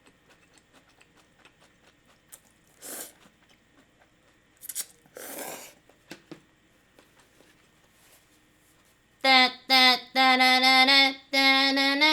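Mouth sounds of eating ramen noodles: a few short slurps and faint chewing clicks. About nine seconds in, a woman's voice starts humming a tune, loud and held on steady notes in several phrases.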